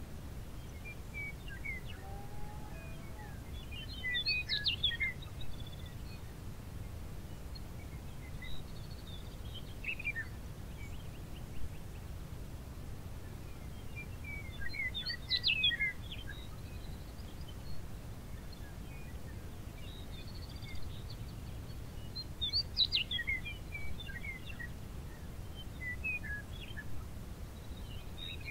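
A songbird singing short, quick jumbled song phrases about every six seconds, over a steady low background rumble.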